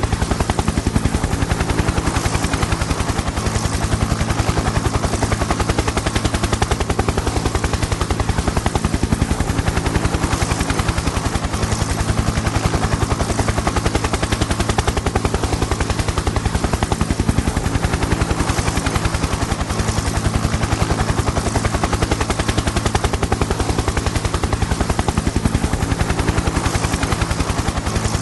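Helicopter in flight: its rotor blades chop rapidly and evenly over a steady, low engine hum, with no change in pace or loudness.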